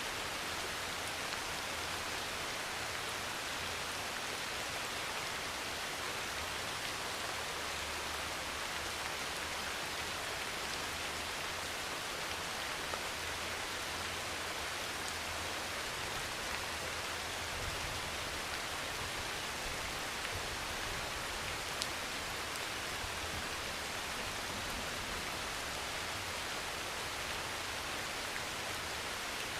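Heavy rain pouring steadily onto a thin metal roof, with a faint low rumble underneath through the middle stretch and a couple of sharper single drip impacts.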